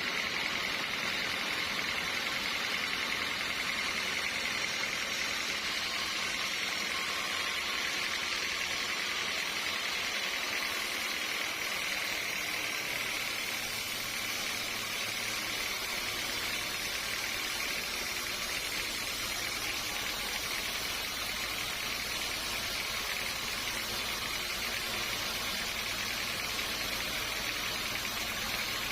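Sawmill saw running steadily, an even, unbroken machine noise with a hissing edge.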